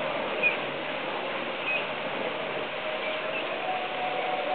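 Short high chirps of small birds, one every second or so, over a steady hum of background noise.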